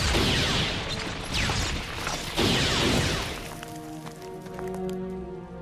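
Dramatic music under three loud crashing sound-effect blasts, each with a falling zap, about a second apart. From about four seconds in the blasts stop and the music settles into held chords.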